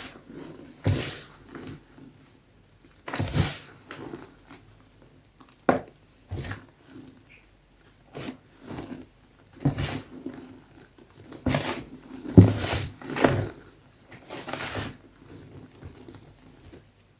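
Soft gym chalk being crushed, a series of separate crunches at uneven intervals, some louder than others.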